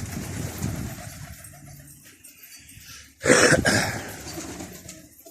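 Domestic pigeons cooing low in the first second. About three seconds in, a loud rustling burst of noise lasts under a second.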